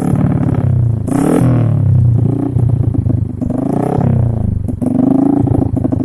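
Small four-stroke motorcycle engine, a Honda Grand bored out with an oversize Jupiter piston, blipped repeatedly through an RCB Purba aftermarket racing exhaust, the revs rising and dropping back several times between spells of rough running.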